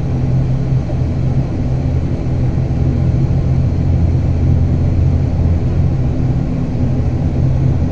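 Airliner engines running steadily during takeoff, a loud, even low drone with a humming tone.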